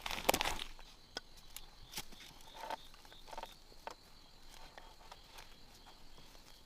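Light rustling, strongest in the first half-second, then scattered sharp clicks and knocks, like handling or tapping wood. Under them runs a faint, steady, pulsing high chirp, typical of an insect in the forest.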